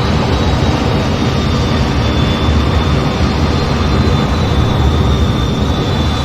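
F-15 fighter jet engine noise: a steady deep rumble and rush with a thin, high whine held almost level over it.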